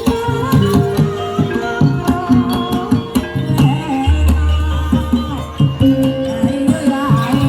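Jaranan music: rapid hand-drum strokes over sustained gamelan-style tones, with a wavering melody line above. A deep low tone holds for about two seconds in the middle.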